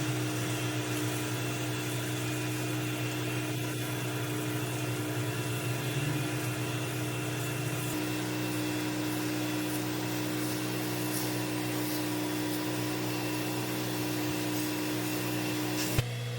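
Pressure washer running steadily, its engine hum under the hiss of the water spray. A sharp click near the end, after which the hiss eases slightly.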